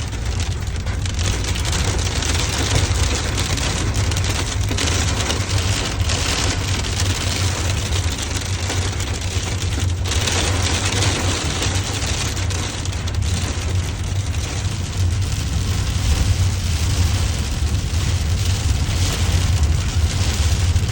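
Heavy rain mixed with ice pelting steadily down onto surfaces, as an even hiss, with a steady low rumble underneath.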